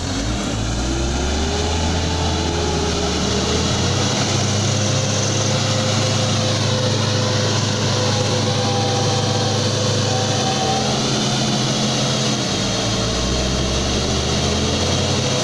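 Motor vehicle engine running steadily, with a low drone and a higher tone that glides up and down as the revs change.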